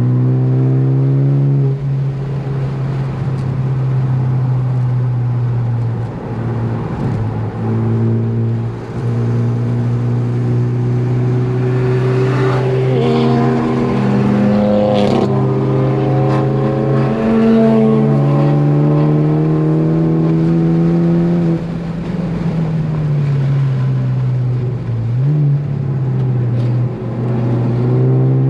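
Ford Focus ST's turbocharged 2.0-litre four-cylinder engine under hard track driving, its pitch climbing and falling with revs and shifts, with brief drops in level several times.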